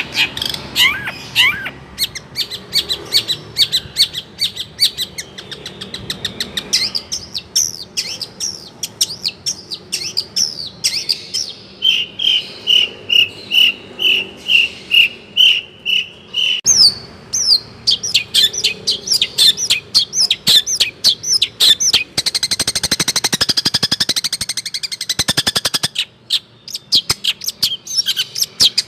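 Long-tailed shrike (cendet) singing a fast, varied song packed with mimicked calls of other birds such as swiftlets. It runs through quick high chirps, a string of evenly spaced repeated notes about twelve seconds in, and a dense buzzing trill about two-thirds of the way through.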